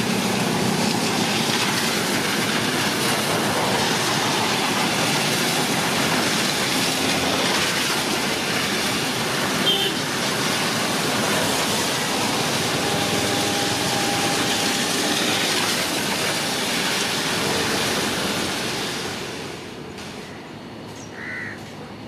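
Train running on the rails, a steady, loud rush of wheel and track noise that drops away sharply about twenty seconds in.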